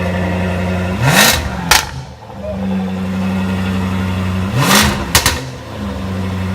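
Jaguar F-Type SVR's supercharged 5.0-litre V8 idling, blipped twice with a quick rise and fall in revs; each blip ends in sharp cracks from the exhaust before it settles back to idle.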